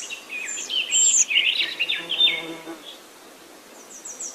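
Small birds chirping in quick, twittering calls, busiest in the first three seconds, fading for a moment and then starting again near the end.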